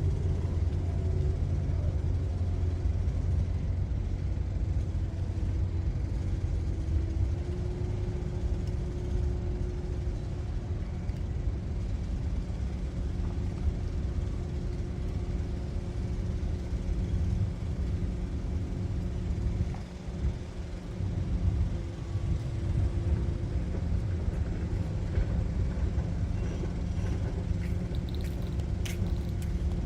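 An engine running steadily, a low drone whose pitch shifts slightly at times.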